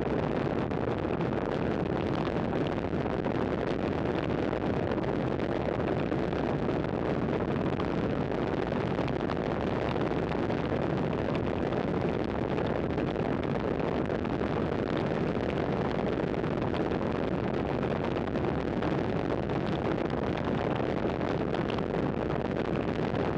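Steady wind rush over the microphone of a camera riding along on a road bike at speed, an even unbroken noise with no change.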